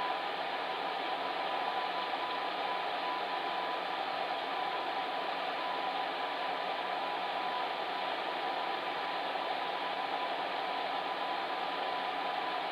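Fan heater running steadily: an even rush of blown air with a faint steady hum from the fan motor.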